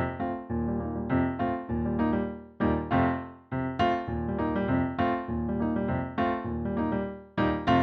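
Piano accompaniment, chords and notes struck about twice a second and left to ring and fade between strikes.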